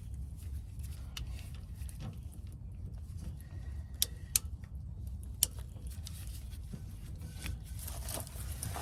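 Sharp metallic clicks and clinks from hand tools and brake parts being handled, a few separate ones about four to five and a half seconds in, over a steady low rumble.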